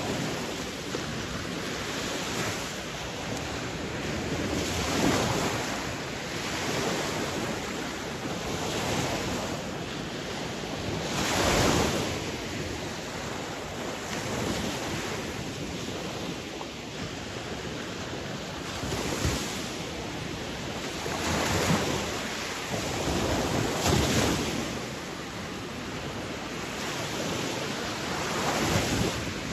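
Sea waves breaking and washing on a shore, a steady rush of surf that swells every few seconds, loudest about a third of the way in and again past two-thirds.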